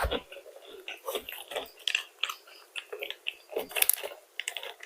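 Close-up chewing of crisp fried food: irregular crunches and crackles with small mouth sounds.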